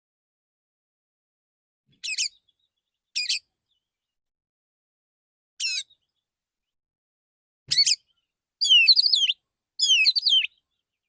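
Male Oriental magpie-robin (kacer) singing a relaxed call-song. Short whistled phrases come a few seconds apart, then two longer, more varied warbling phrases near the end.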